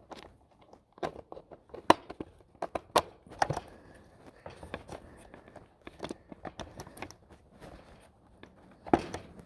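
Irregular sharp clicks and knocks of plastic and metal parts as a Ryobi 40-volt chainsaw's bar, chain and tensioner are fitted and adjusted by hand, with the loudest knocks about two, three and nine seconds in.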